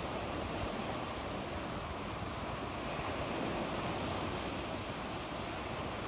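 Sea waves washing onto the shore, a steady, unbroken wash of surf.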